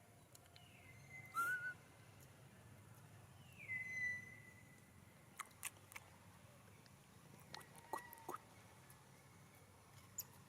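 A baby monkey's high whistled coo calls: two calls that drop in pitch and then hold, one near the start and a longer one about four seconds in, with a short rising squeak between them. A few faint sharp clicks follow later.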